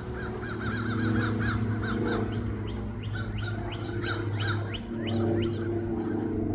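Songbirds chirping: a quick run of short wavering notes in the first two seconds, then a series of sharp rising whistled notes. A steady low hum runs underneath.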